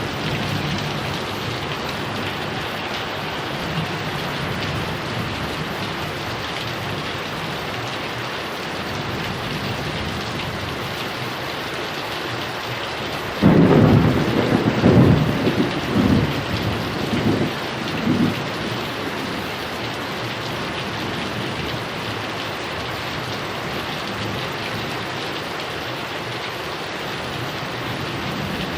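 Steady heavy rain, with a sudden thunderclap about halfway through that rumbles on in several rolls for about five seconds before the rain alone carries on.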